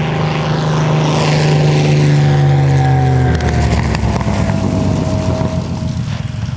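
A single-engine WWII fighter's V-12 piston engine and propeller passing in a flyby: the engine tone swells, drops in pitch as the plane goes by about three seconds in, then fades away.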